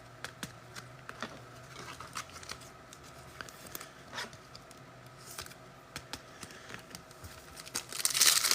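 Trading cards and packs handled with soft clicks and rustles, then, near the end, a foil card pack being torn open with loud crinkling.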